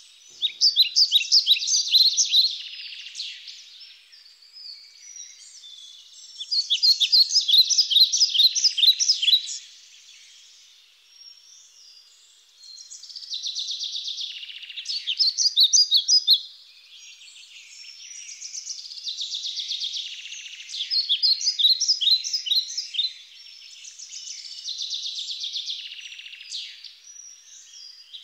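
A songbird singing: phrases of rapid, repeated high notes about three seconds long, coming every five to six seconds, with fainter chirping between them.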